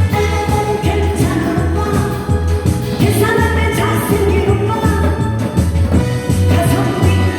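A live singer performing a Korean pop song over a backing track with a steady beat.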